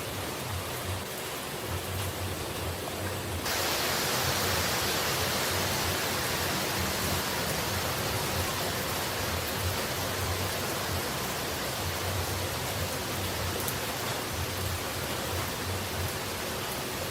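Steady rushing noise of falling water. About three and a half seconds in it abruptly turns louder and brighter, then runs on evenly.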